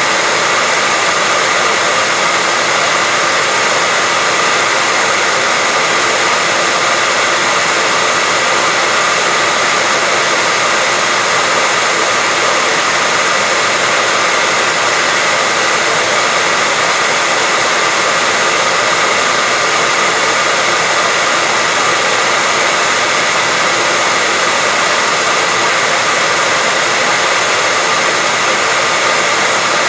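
Electric hair dryer running steadily: an even rush of blown air with a faint motor whine, unchanging throughout, played as white noise to lull a baby to sleep.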